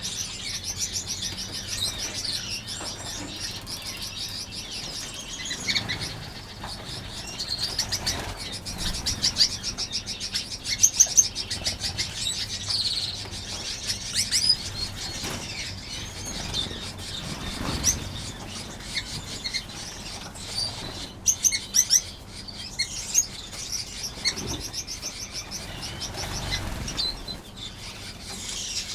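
A crowded aviary of small finches chirping continuously, many short high calls overlapping, with wingbeats as the birds flit about; a few louder bursts of calling stand out around the middle and about two-thirds of the way in.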